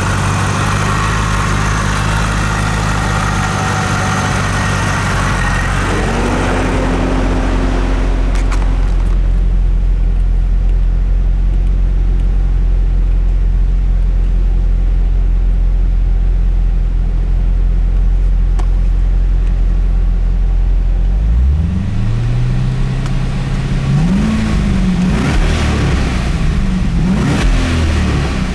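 Supercharged 6.2-litre LSA V8 of a 2012 Cadillac CTS-V idling steadily. About two-thirds of the way through, the engine speed rises and holds. Near the end it is revved up and down in several quick blips.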